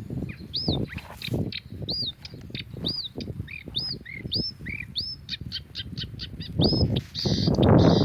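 A songbird singing a phrase of repeated high, arched notes about two a second, then a quick run of short notes. A low rumbling noise runs underneath and grows loud near the end.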